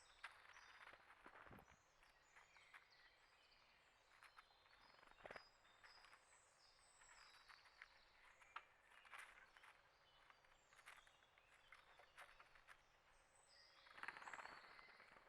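Faint outdoor ambience of small birds chirping over and over, mixed with scattered clicks and rustles. A louder burst of rustling comes near the end.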